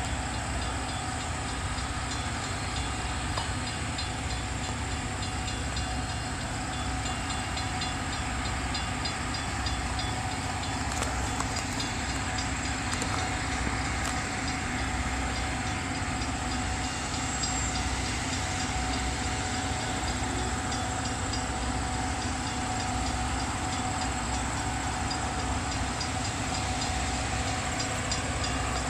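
Metra commuter train's diesel locomotive running steadily at a distance: a low rumble with a steady hum.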